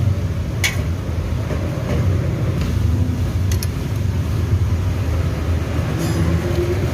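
Steady low mechanical drone, with a few light clicks over it.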